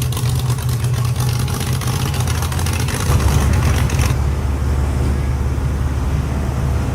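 A car's engine running with a deep, steady low rumble that grows heavier about three seconds in. A crackly hiss over it cuts off abruptly about a second later.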